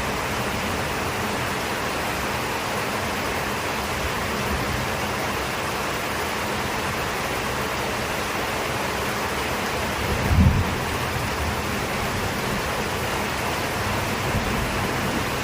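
Steady heavy rain with a low rumble of thunder about ten and a half seconds in.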